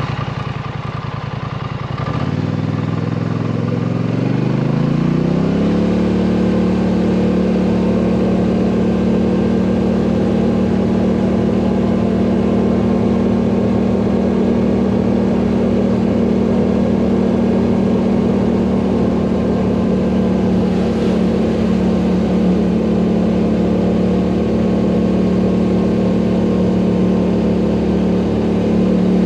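ATV engine pulling away: its pitch rises over a few seconds, then it runs at a steady speed, with a steady noise on top.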